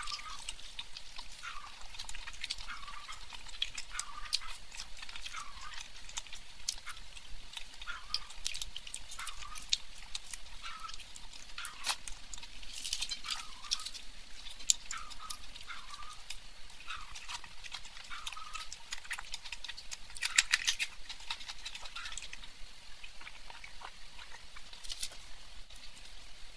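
Close-miked wet chewing and lip-smacking while eating luchi with mutton curry, in a steady chewing rhythm of about one chew a second, full of small sticky clicks. A louder cluster of wet clicks comes about twenty seconds in.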